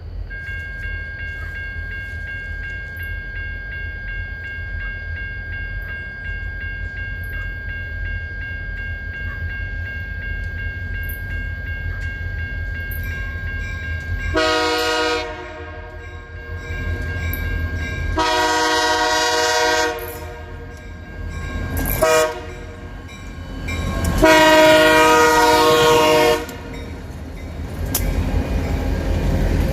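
Three EMD SD40-2 diesel locomotives approaching with a steady low engine rumble, a steady high tone heard over it for the first half. The locomotive air horn then sounds four blasts, long, long, short, long, the standard grade-crossing signal, with the rumble growing louder after them.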